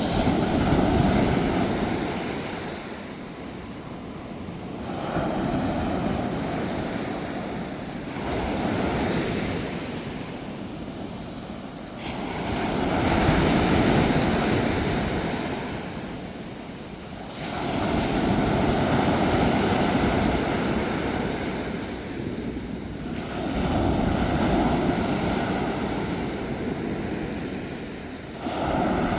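Sea waves breaking and washing onto the shore, one surge swelling and receding every four to five seconds.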